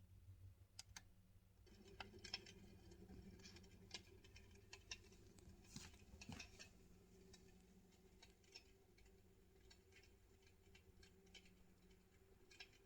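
Near silence: faint room tone with a low hum and scattered light clicks.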